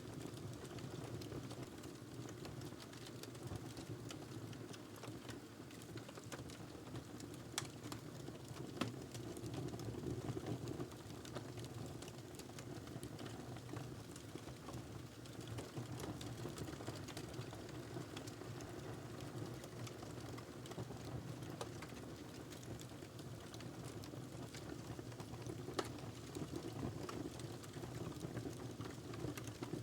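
Wood fire crackling in a fireplace: a steady low rushing of the burning logs with scattered small ticks and a few sharper pops, the clearest about a quarter of the way in and near the end.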